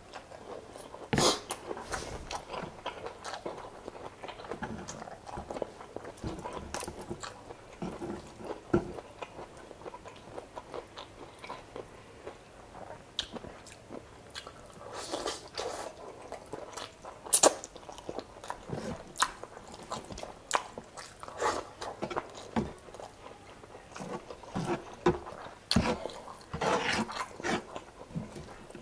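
Close-miked eating: a person biting and chewing chicken adobo and rice, with frequent sharp wet clicks, the sharpest about 17 seconds in.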